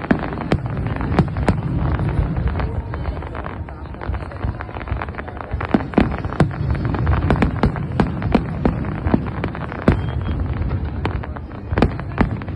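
Fireworks going off: many sharp bangs and pops in an irregular, rapid series over a continuous low rumble.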